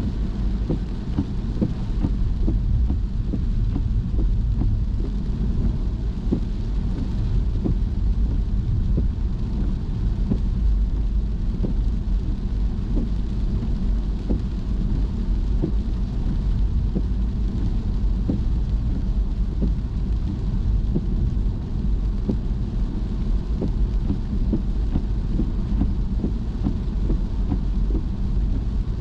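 Car driving on a wet road in the rain: a steady low rumble of tyres and engine, with many small ticks of rain hitting the car.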